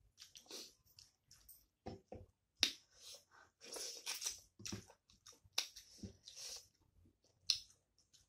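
Close-miked mouth sounds of eating rice and chicken curry by hand: wet chewing, lip smacks and finger sucking in short irregular bursts, with a few sharp smacks.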